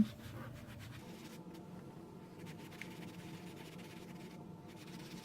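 Faint, scratchy rubbing of an ink sponge being worked over a cardstock panel, over a steady faint electrical hum.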